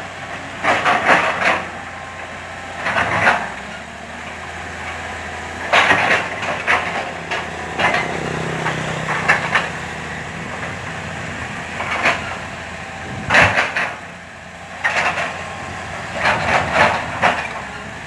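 Komatsu hydraulic excavator at work: its diesel engine runs steadily while bursts of scraping and clatter from soil and stones come every couple of seconds as the bucket digs and dumps.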